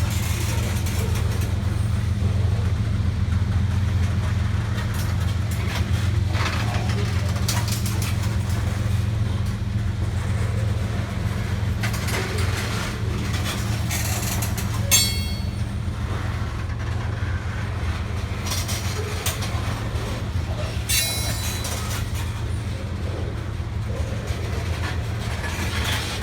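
Freight train of tank cars rolling past with a steady low rumble, the wheels clacking over the rail joints. Brief high squeals come through a couple of times, about fifteen and twenty-one seconds in.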